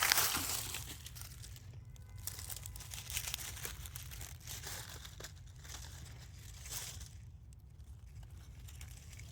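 Irregular rustling and crinkling handling noise, loudest at the start and fading within about a second, over a steady low rumble.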